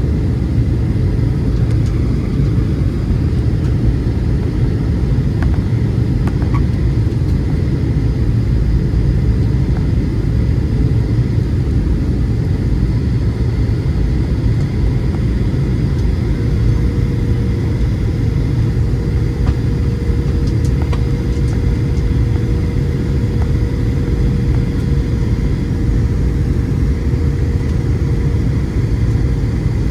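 Steady low cabin rumble of a Boeing 737-700 heard from inside the passenger cabin, with a faint steady hum joining about halfway through.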